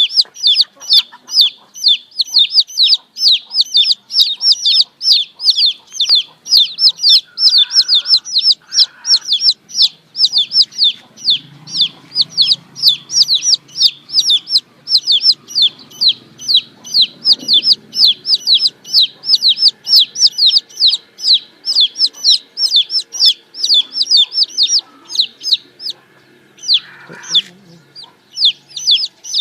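Domestic chicks peeping steadily: a rapid run of short, high, downward-sliding peeps, about three a second. Near the end the peeping stops briefly and a single lower call is heard.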